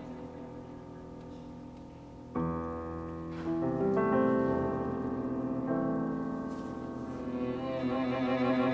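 Piano trio playing classical chamber music. Held notes fade, then the piano strikes a chord about two and a half seconds in and adds further notes, and near the end the violin and cello come back in with vibrato.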